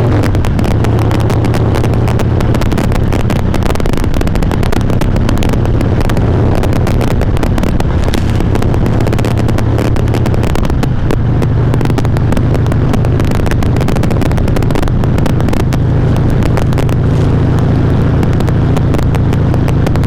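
Harley-Davidson V-twin engine and exhaust running at a steady cruising speed, picked up by a helmet chin microphone. The recording is loud and crackly with distortion, the audio problem that is being tested.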